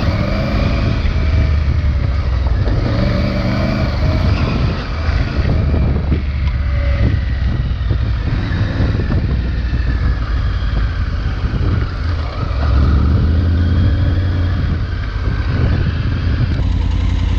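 Triumph Tiger 900 Rally Pro's 888 cc inline-three engine, with its T-plane firing order, running through the stock exhaust while being ridden. The revs rise and fall with the throttle, easing off briefly a few times.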